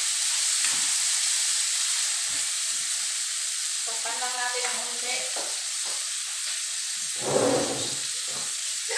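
Chicken pieces frying in hot oil in a steel wok, a steady high sizzle, with a few scrapes of a ladle stirring the pan in the first seconds. A short louder knock comes near the end.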